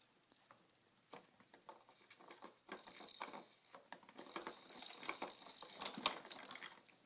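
Baby's exerciser toys being handled and shaken: rattling, crinkling and clicking in two longer stretches, the first starting a little under three seconds in, with a sharp click about six seconds in.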